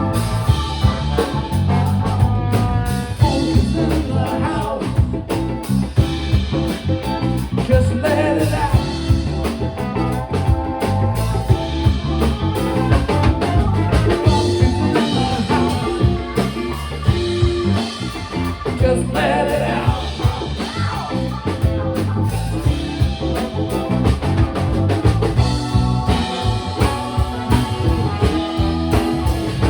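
Live band playing a funk song with drum kit and electric guitar over a steady beat.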